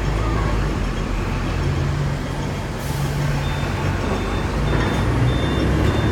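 Hong Kong tram in motion: a steady rumble of the car running along the street rails, mixed with road traffic. In the second half a high beep repeats about every half second.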